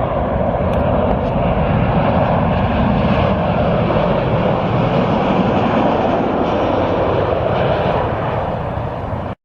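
Jet airliner's engines passing low overhead on its landing approach: a loud, steady rush of engine noise that cuts off suddenly near the end.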